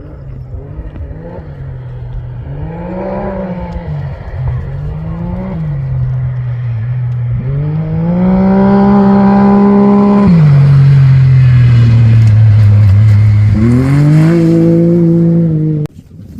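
Rally raid competition vehicle's engine revving up and shifting through gears, its pitch climbing and dropping several times as it approaches. It grows much louder about halfway through, then cuts off suddenly just before the end.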